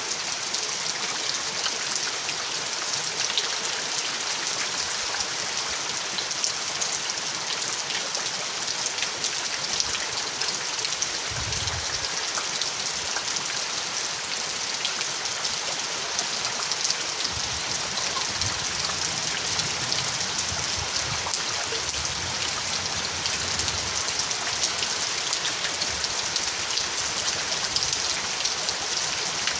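Steady rain falling, a dense even hiss of many raindrops striking a surface, with faint low rumbles about a third of the way in and again through the middle.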